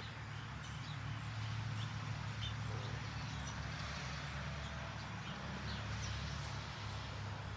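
Small birds chirping briefly and sparsely at bird feeders, over a steady low rumble.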